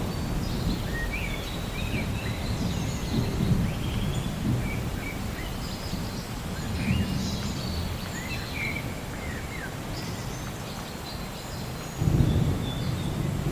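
Steady rain with low thunder rumbling beneath it, swelling into a louder rumble near the end. Birds chirp over it throughout.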